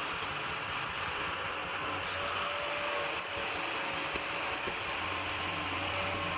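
A steady hiss with a faint hum running under it.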